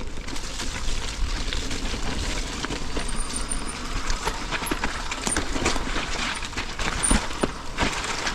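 Mountain bike ridden down a wet dirt trail: tyre noise and a constant irregular clatter of chain and frame over the bumps, with wind buffeting the microphone.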